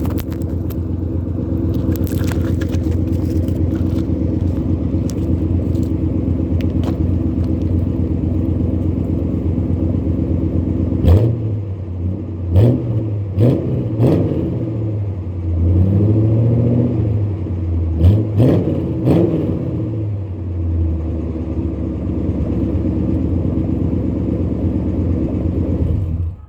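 Oldsmobile 307 small-block V8 running through a dual exhaust with 2.5-inch Flowmaster FX mufflers and an H-pipe: it idles steadily, then takes a string of quick throttle blips and one longer rev with a deep tone and no crackle, settles back to idle, and is switched off, cutting out suddenly near the end.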